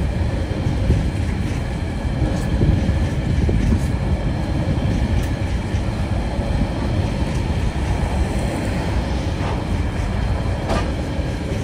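Container wagons of a Tasrail freight train rolling past at close range: a steady noise of steel wheels on rail, with a few sharp clicks as the wheels pass.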